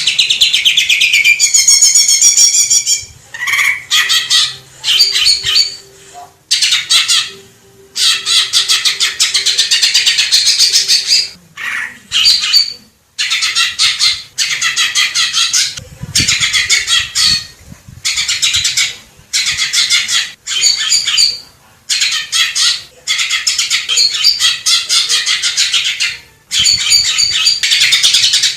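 Green leafbird (cucak ijo) singing loud, rapid, high warbling phrases. About a dozen bursts of one to two seconds follow one another with brief pauses between them.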